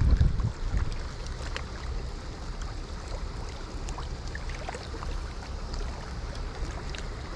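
Steady rush of river current running over a rocky wing dam, with a low rumble underneath, a louder bump at the start and a few faint small clicks.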